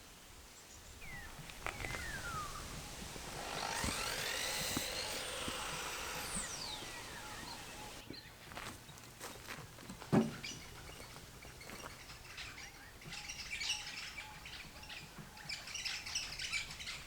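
Birds calling and chirping in short high calls, with a single sharp knock about ten seconds in.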